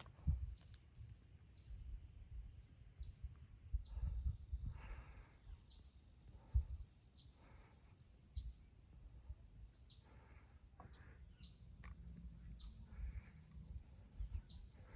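A bird calling over and over: short, high chirps that fall in pitch, about one a second, over a low rumble with occasional thumps.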